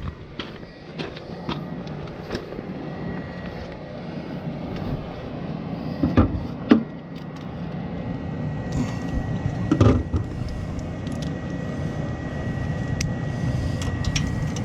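Steady rain falling, with occasional sharp metallic clinks and knocks of a ratchet and wrench being fitted to a generator battery terminal, the loudest about six, seven and ten seconds in.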